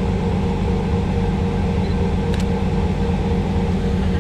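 Steady low drone of a running car, holding even with no revving, with one short sharp click about halfway through.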